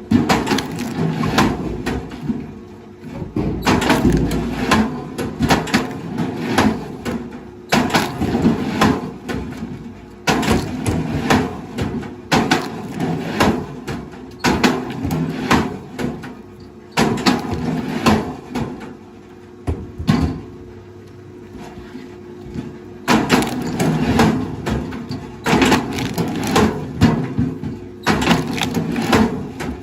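Wood cracking and crunching with many sharp snaps over a low rumble, in short stretches of a few seconds that change abruptly from one to the next.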